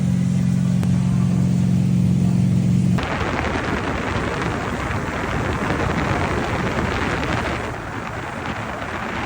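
Jet ski engine running with a steady low hum, then about three seconds in it gives way abruptly to loud wind rushing over the microphone as the craft moves.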